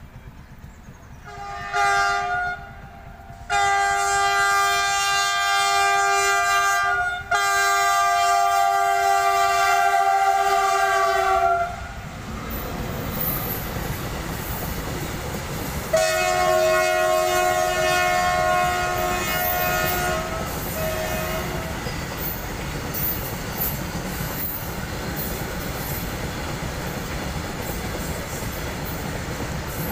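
A locomotive's multi-tone horn sounds a short blast, then two long blasts of about four seconds each. A freight train of covered goods wagons then rumbles and clatters past over the rails, with one more long horn blast about 16 seconds in.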